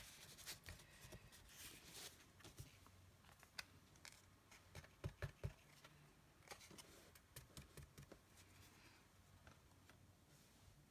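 Faint, scattered light taps and paper rustles of hands handling card and paper while white embossing powder is poured over a stamped card.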